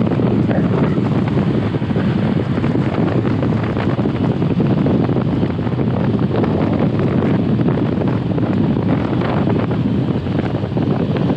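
Wind buffeting a helmet-mounted GoPro's microphone on a moving motorcycle: a loud, steady low rumble that masks the engine.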